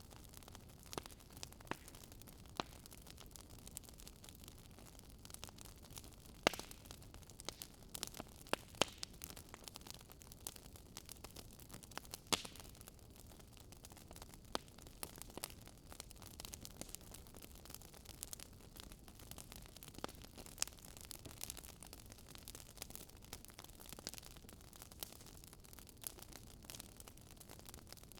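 Wood fire crackling: a faint low rush of burning with irregular sharp pops and snaps of the logs, a few louder pops among them.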